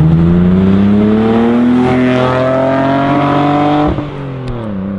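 Toyota MR2's turbocharged engine through its new exhaust, accelerating hard: the engine note climbs steadily for about four seconds, then the throttle closes suddenly and the revs fall away.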